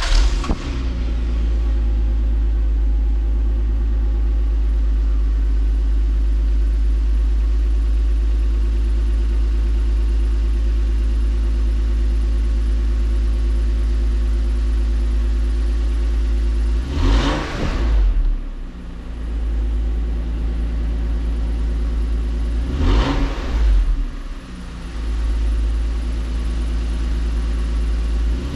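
1998 Toyota Supra's non-turbo 3.0-litre inline-six (2JZ-GE) idling steadily at the exhaust just after a cold start. It is revved briefly twice in the second half, each time rising and falling quickly, and revs again as it ends.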